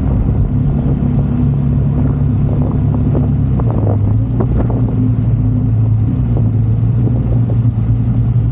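A motor vehicle's engine running steadily, with a low hum that drops slightly in pitch about three and a half seconds in and a few short knocks around then.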